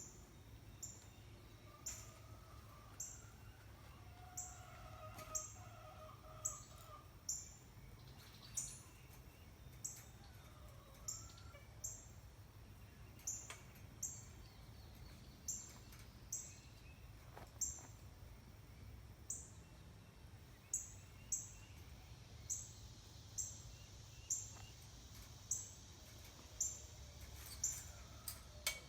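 A bird's short, high-pitched chirp repeating steadily about once a second, with a few fainter, lower wavering calls a few seconds in and a faint low background hum.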